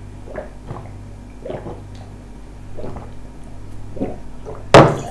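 Watermelon being eaten: short, soft mouth sounds about once a second. A sharp, loud knock comes near the end.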